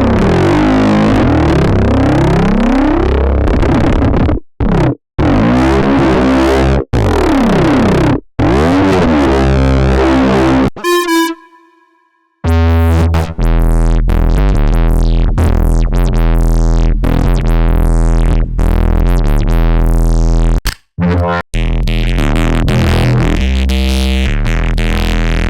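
Vital software synthesizer bass presets played one after another: gritty, heavily modulated electronic bass tones with sweeping pitch glides, each stopping abruptly. About eleven seconds in, a short bell-like tone fades out, and after a brief silence a deep, pulsing bass pattern takes over.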